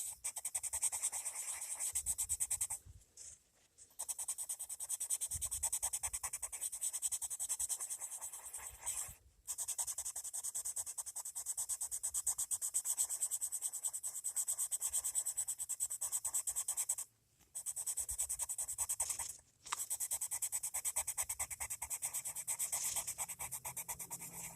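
Colored pencil shading on paper: rapid back-and-forth scratchy strokes in long runs, broken by a few short pauses.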